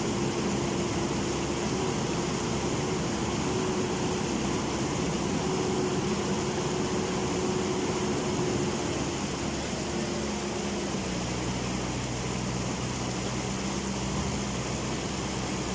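A JCB's diesel engine running under a steady rush of floodwater. About eleven seconds in, the engine note drops lower, as the machine bogs down in the river.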